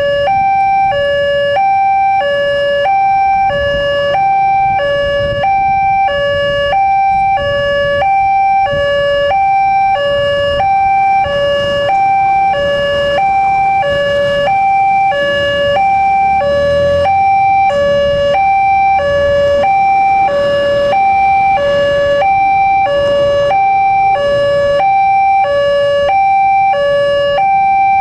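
Railway level-crossing alarm sounding a two-tone electronic chime: a higher and a lower note alternate, each about half a second, repeating steadily. A low rumble rises under it about halfway through.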